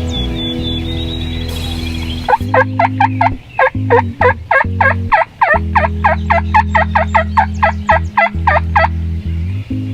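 Wild turkey gobbling, a fast rattling run of notes from about two seconds in until near nine seconds, over background music with a steady bass line.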